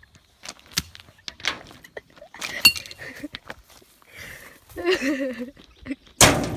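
Stones thrown at glass bottles: scattered clinks and knocks, then a loud crash near the end. A brief voice is heard about five seconds in.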